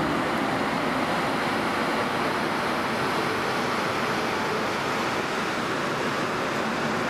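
Passenger train pulled by a ChS2T electric locomotive moving slowly past on departure. The locomotive and the rolling cars make a steady rushing noise with no distinct wheel clicks.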